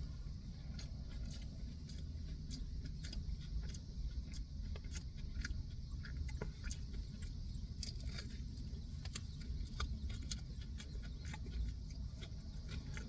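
A person biting into and chewing a wrap with crunchy potato chips inside: many small irregular crunches and clicks over a low steady hum.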